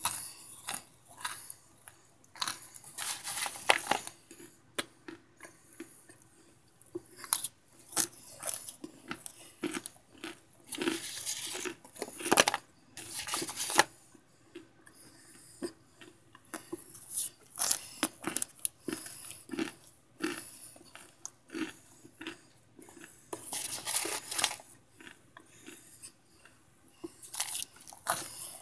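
A person chewing microwaved Argo cornstarch chunks close to the microphone: irregular bites and crunches, with denser spells of crunching three times.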